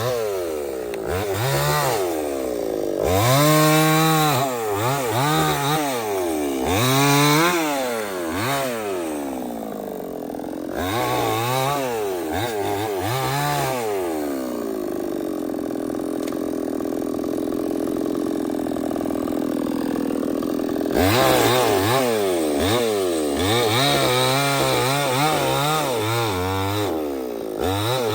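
Stihl 070 two-stroke chainsaw being revved up and down repeatedly, about once a second. Midway it holds at a steady, lower pitch for several seconds under load in the teak cut, then the quick revving resumes.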